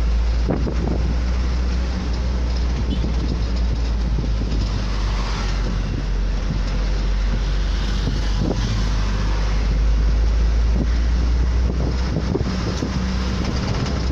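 Wind buffeting the microphone on a moving vehicle, a steady low rumble, over road traffic noise.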